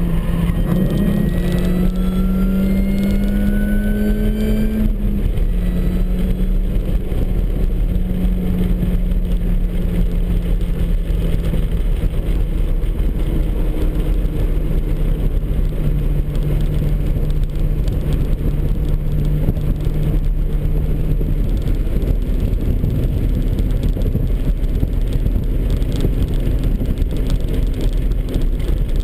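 Supercharged MINI Cooper S four-cylinder engine heard from inside the car on track. It climbs steadily in pitch for about five seconds and drops suddenly at a gearchange, then runs at a fairly steady pitch over road and wind rumble, stepping up again later.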